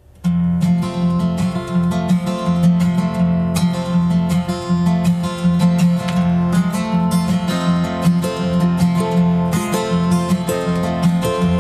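Acoustic guitar strumming the instrumental intro of a live folk song, starting abruptly about a third of a second in, with no singing yet.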